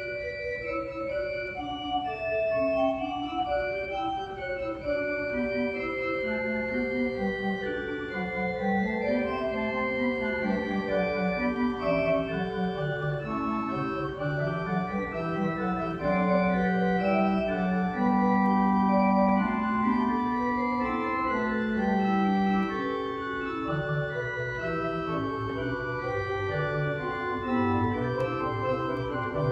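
Organ music: held chords with a slowly moving melody and bass line, the bass notes growing stronger from about halfway through.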